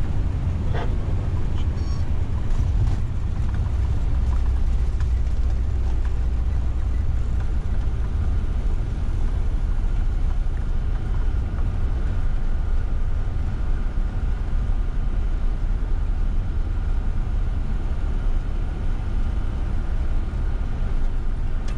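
Boeing 747-400ERF heard from its flight deck on the landing rollout just after touchdown: a loud, steady low rumble of the airframe and engines on the runway, with a faint steady whine in the later part.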